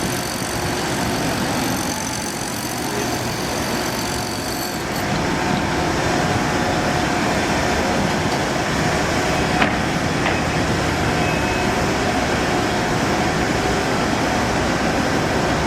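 Steady engine and machinery noise that grows heavier about five seconds in, with a single sharp click near ten seconds.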